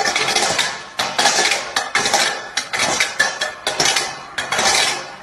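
Repeated clattering and clinking of hard objects, a burst about once a second.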